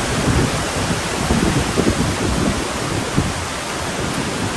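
Strong wind buffeting the microphone: a steady rushing hiss with uneven low rumbling gusts.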